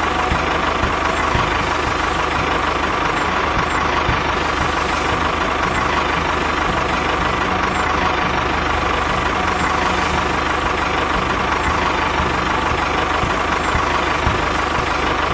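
A vehicle engine running steadily, with no change in pitch or speed.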